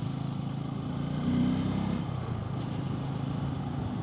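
Bajaj Pulsar N250's single-cylinder engine running steadily under way, heard from the rider's own bike, briefly louder about a second and a half in.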